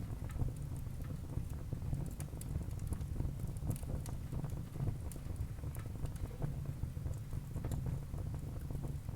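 Wood fire burning in a fireplace: many irregular sharp crackles and pops from the burning logs over a steady low rumble of the flames.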